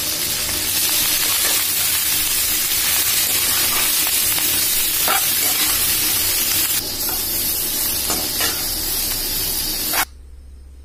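Moringa leaves and scrambled egg sizzling in a hot frying pan while a metal spatula stirs them, scraping the pan now and then. The sizzling cuts off suddenly near the end.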